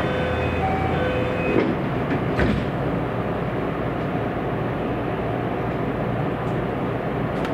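Running noise inside a JR West 227 series electric train at speed: a steady rumble of wheels on rail. There are two short knocks about a second and a half and two and a half seconds in, and a faint steady whine over the first second and a half.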